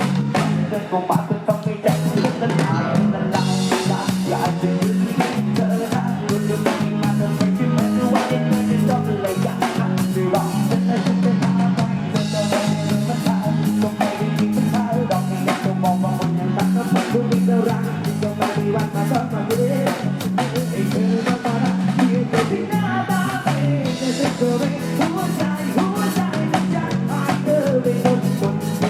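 Live Isan band music with a steady drum-kit beat over a heavy bass line, playing without a break.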